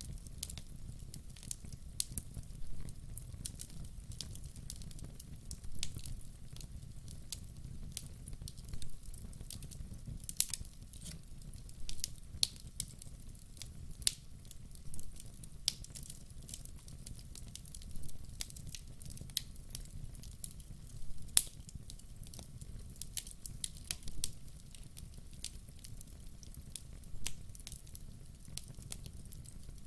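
Wood fire of burning logs crackling and popping: irregular sharp snaps, several louder pops, over a steady low rumble of the flames.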